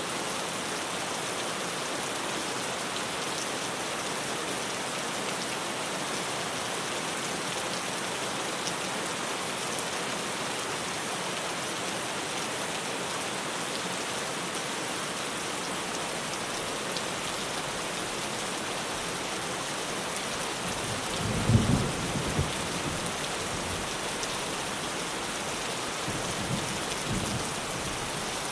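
Steady rain on a tin roof. A short low rumble of thunder, the loudest sound, comes about two-thirds of the way through, and a fainter one follows near the end.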